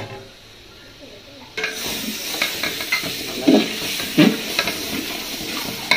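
Tomato and onion masala sizzling as it fries in a large aluminium pot. The sizzle comes in suddenly about one and a half seconds in, and a metal ladle stirs and scrapes through the thick masala in repeated strokes. The tomatoes are still frying down and being mashed.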